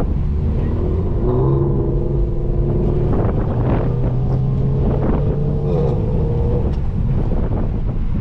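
Six-speed manual Nissan Altima's engine pulling the car slowly forward in a queue, over a low, constant rumble. A steady engine drone comes in about a second in and fades out around six and a half seconds.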